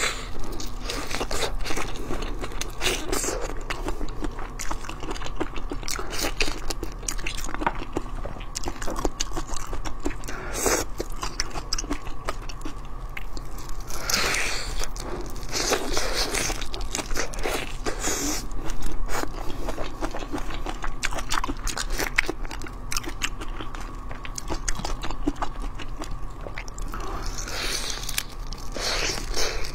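Close-miked biting, crunching and wet chewing of whole marinated shrimp, irregular clicks and smacks with a few louder, longer stretches, over a faint steady electrical hum.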